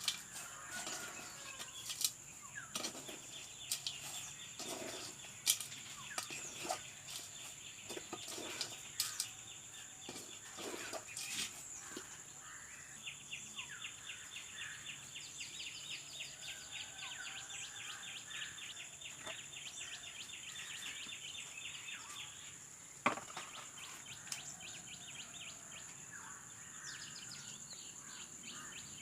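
Rural outdoor ambience: birds chirping over a steady high-pitched drone, with long stretches of a fast pulsing trill and scattered sharp knocks and taps.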